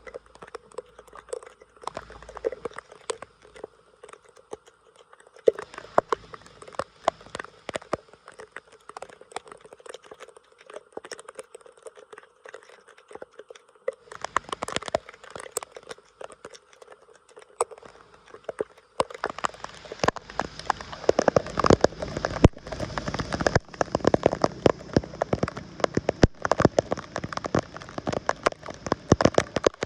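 Wet crackling, splashing and patter of water and sodden debris as a clogged drain is being cleared. The sound is a dense, irregular crackle that grows louder about two-thirds of the way in.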